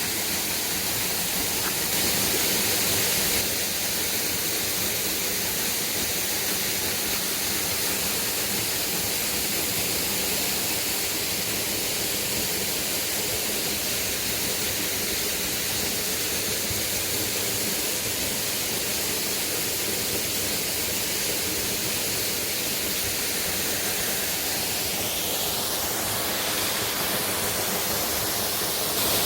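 A waterfall's water falling and rushing in a steady, even wash of noise.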